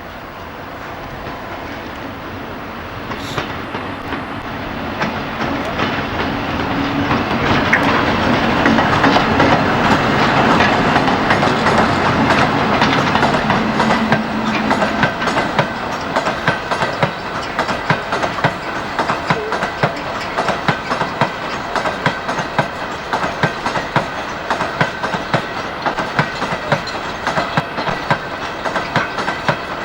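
Freight train passing behind a BR Class 60 diesel locomotive. The locomotive's engine note builds to its loudest about ten to fourteen seconds in. The wagons follow, their wheels clattering rhythmically over rail joints.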